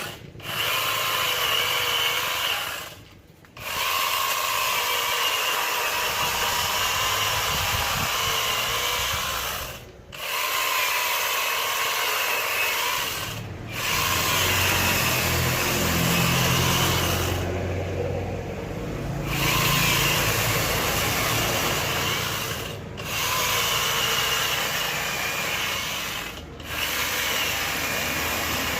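Angle grinder fitted with a chainsaw adapter cutting through wood, running steadily with short breaks every few seconds.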